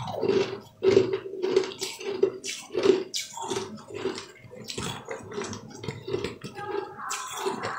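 Close-miked chewing of sugar-coated candy balls: a string of irregular crunches and bites, about two or three a second.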